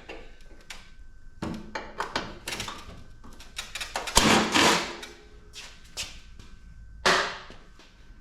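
Metal parts of a PTAC air-conditioning unit being handled during dismantling: scattered knocks and clicks, a louder rattling clatter about four seconds in, and a sharp clank about seven seconds in.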